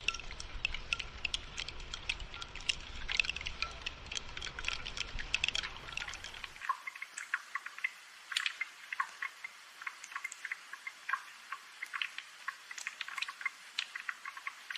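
Rain falling as many small irregular drips and taps. Underneath for the first half is a low rumble that cuts off suddenly about six and a half seconds in.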